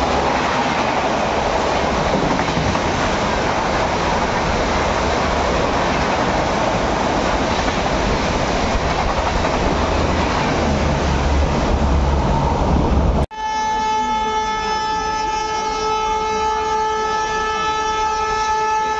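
Passenger coaches rushing past on the rails with a steady wheel-and-rail roar. About two-thirds of the way through it cuts off abruptly, and a train horn sounds one long steady blast until the end.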